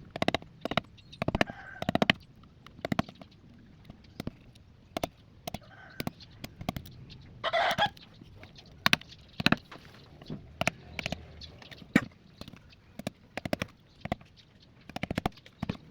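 Chickens clucking in the background, with one short, louder call about seven and a half seconds in, over a string of sharp, irregular taps and knocks from hand work on the sheath.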